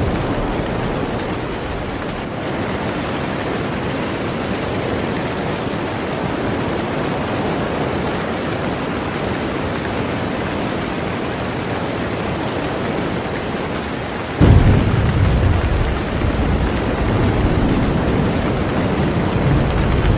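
Heavy rain falling on a boat as a steady hiss. About two-thirds of the way in, a sudden deep rumble of thunder breaks in and keeps rolling.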